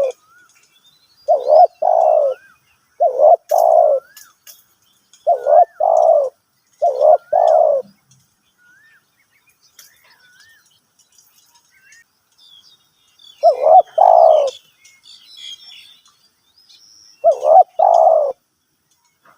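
Spotted dove cooing in repeated two-part phrases, four in quick succession and then two more after a pause. Faint high chirps of small birds sound between the phrases.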